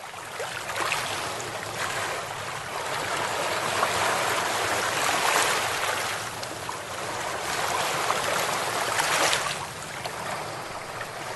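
Rushing water, a dense hiss that swells and eases, loudest around the middle and again near the end.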